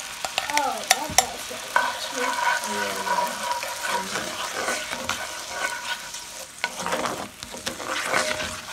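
Diced onions sizzling in foaming butter in a pan, with a spatula stirring and scraping through them and giving a few sharp clicks against the pan.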